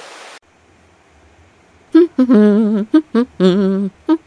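A cartoon character's voice humming in short phrases with a wobbly, wavering pitch, starting about halfway in after a brief pause.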